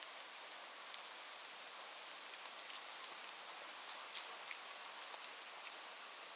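Steady rain falling, with a constant hiss and many separate drop ticks scattered through it.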